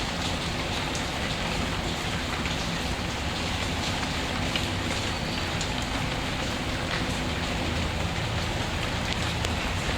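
Steady rain falling and pattering on a surface, with faint scattered crackles of a wood fire.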